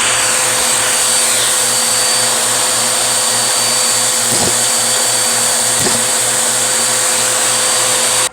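Vacuum cleaner motor running steadily with a constant whine, with a couple of faint knocks in the middle. It cuts off suddenly at the very end.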